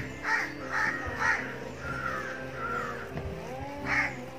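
Bird calling outdoors: a run of short calls about half a second apart, then another call near the end.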